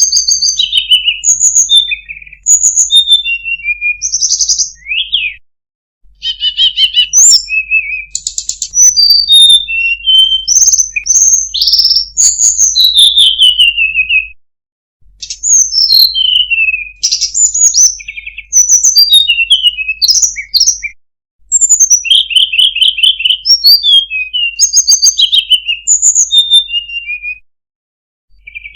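Tledekan gunung songbird singing loud, rapid, varied phrases of high whistles, slurred notes and short trills, in bouts of several seconds broken by brief silent pauses.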